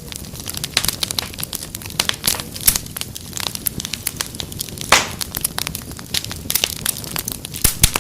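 Wood fire crackling, with dense irregular snaps and pops; the loudest pop comes about five seconds in.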